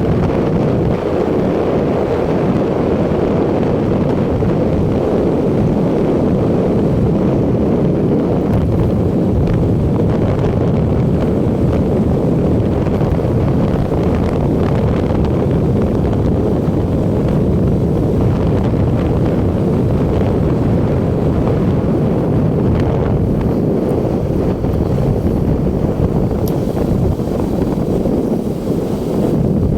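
Loud, steady wind rush buffeting the microphone of a moving motorcycle.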